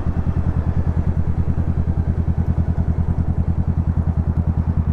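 Honda Rebel 500's liquid-cooled parallel-twin engine, fitted with an aftermarket exhaust, running steadily without revving. Its low exhaust note pulses rapidly and evenly.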